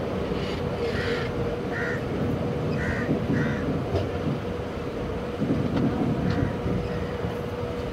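Passenger train coach rolling slowly over the rails with a steady hum, while crows caw four times in the first few seconds.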